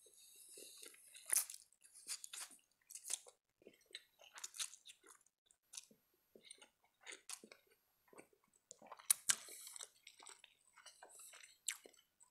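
Close-miked mouth sounds of a man eating spaghetti: noodles slurped off a fork, then wet chewing in short, irregular bursts.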